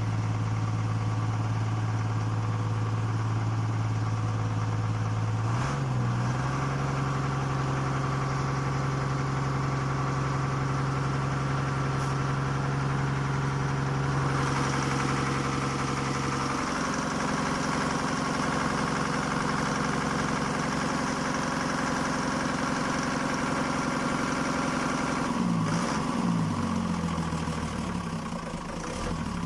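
An engine running steadily at idle. Its pitch steps up about five seconds in, drops back about sixteen seconds in, and wavers up and down near the end.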